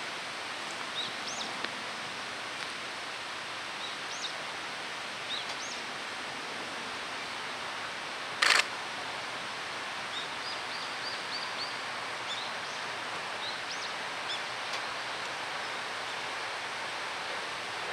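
Steady outdoor background hiss with scattered short, high bird chirps, and one brief loud knock about halfway through.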